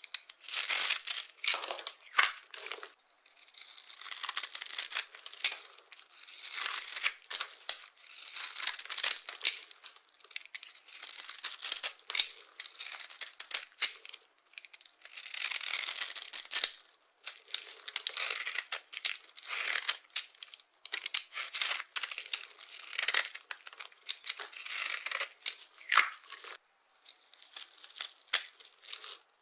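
Dry carved soap being crushed by hand, crunching and crackling as it crumbles, in repeated bursts about every one to two seconds.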